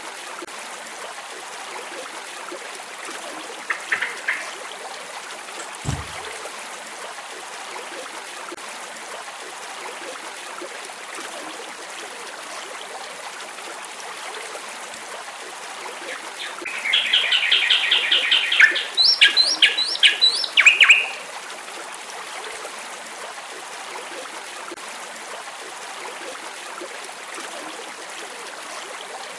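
A songbird sings one burst of song about two-thirds of the way through, a fast rattling trill followed by a few quick rising whistled notes, with a short call earlier on. Under it runs a steady hiss of flowing stream water.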